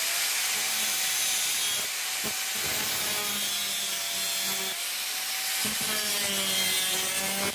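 A power tool cutting through a steel hacksaw blade: a steady, harsh cutting noise with a motor whine that wavers in pitch as the tool is loaded.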